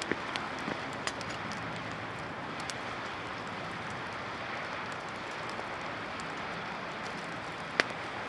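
Dry-wood campfire burning, with scattered crackles and one loud sharp pop near the end over a steady rushing hiss.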